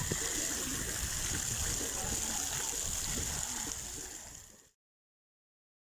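Water running and splashing in a steady hiss, fading out about four seconds in and then cutting to silence.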